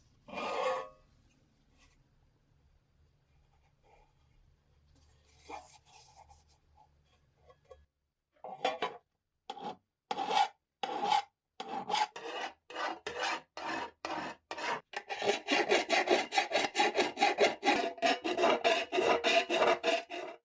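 Rasping back-and-forth strokes of hand filing or sanding on a lighter part during restoration. The strokes start about eight seconds in at roughly two a second, then quicken and grow louder toward the end.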